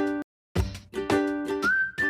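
Upbeat background music of rhythmic strummed chords, cut off by a brief silent gap just after the start, then a whistled melody coming in near the end with a slide up into a held note.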